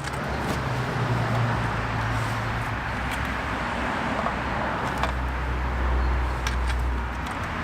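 Steady low rumble of a vehicle engine or road traffic, swelling a little deeper near the end, with a few faint light clicks.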